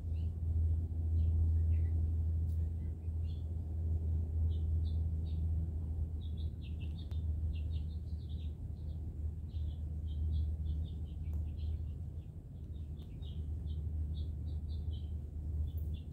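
Small birds chirping over and over in short high notes over a steady low rumble.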